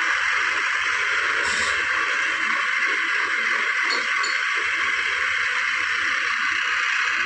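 JCB 3DX backhoe loader's diesel engine running steadily under work, heard as an even, unbroken noise with a couple of faint clinks.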